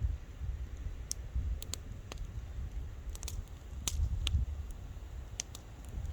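Wood fire crackling, with sharp pops and snaps at irregular intervals over a low rumble.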